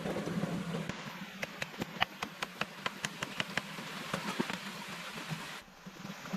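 A quick run of about a dozen sharp knocks, some six a second, in the middle, over a steady rushing background.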